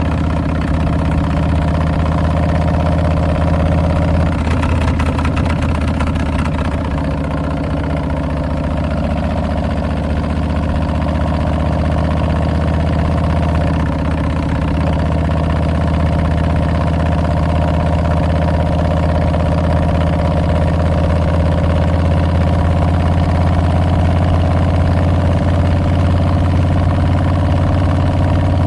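Harley-Davidson Milwaukee-Eight 114 V-twin running through Tabs Performance slip-on mufflers with Zombie Baffles, a steady, deep exhaust note. The engine note changes briefly about four seconds in and again around fourteen seconds, then holds steady.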